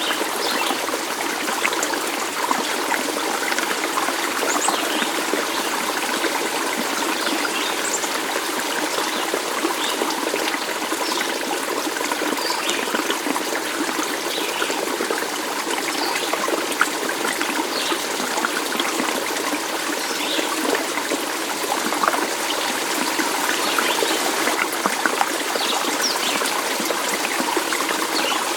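Stream water flowing and trickling steadily, with scattered small bubbling plinks throughout.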